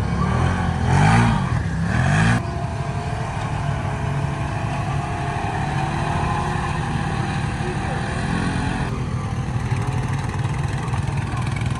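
Off-road vehicle engine revving up and down about three times, then, after a cut, a steady engine drone with outdoor noise.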